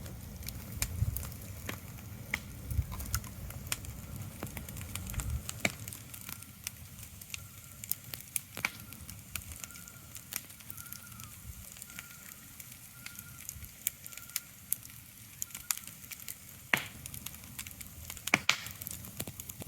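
Soft steady hiss with many irregular sharp crackles and pops, and a low rumble in the first five seconds or so.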